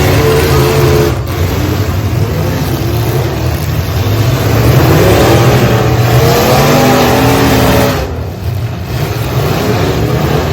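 Demolition derby trucks' engines running hard and revving, the pitch rising and falling, with a brief drop in loudness about eight seconds in.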